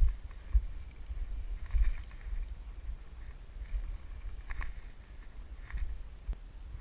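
Uneven low rumble of wind and movement on the camera's microphone, with a couple of faint clicks near the end.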